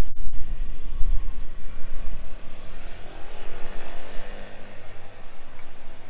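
A vehicle passing by: its engine and road sound swell and fade over a couple of seconds around the middle. Wind rumble on the microphone is heavy at the start.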